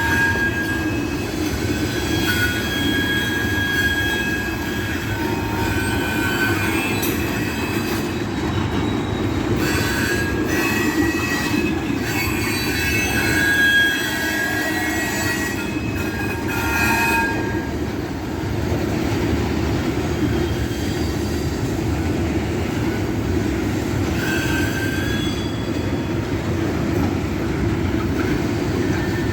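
Freight train of loaded rock hopper cars rolling past: a steady rumble with steel wheels squealing on and off in high thin tones.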